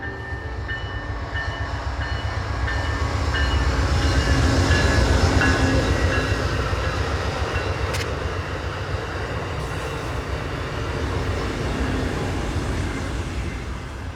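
Train passing on the rails: a steady rumble that swells to its loudest about five seconds in and then eases off, with one sharp click about eight seconds in.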